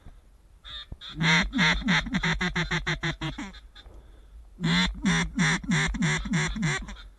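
Duck quacking: two loud runs of rapid quacks, the first of about a dozen and the second of about eight, each run tapering off toward its end.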